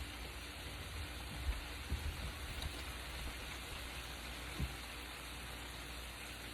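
Chicken-thigh skewers sizzling steadily in a hot pan, a constant crackling hiss from the meat and its marinade juice frying, with a few soft low knocks.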